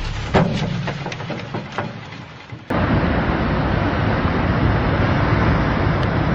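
A run of sharp cracks and knocks that die away, then an abrupt cut about two and a half seconds in to a steady, loud rushing noise.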